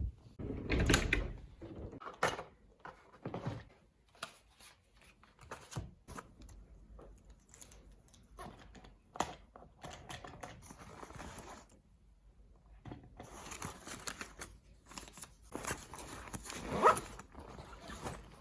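Irregular handling noises: light clicks, knocks and rustling of small objects being moved, with a louder bump about a second in and a sharp knock near the end.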